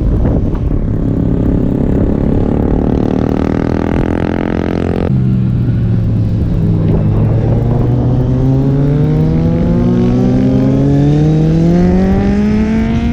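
Superbike engine running hard on a race track: a roughly steady pitch for about five seconds, an abrupt change, then a long steady climb in pitch as the bike accelerates.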